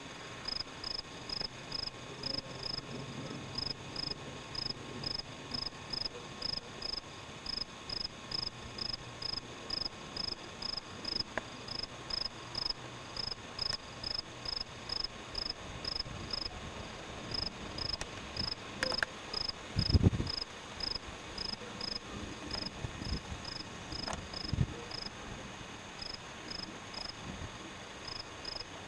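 A cricket chirping steadily, short high-pitched chirps about twice a second. Two brief low thumps come about two-thirds of the way through.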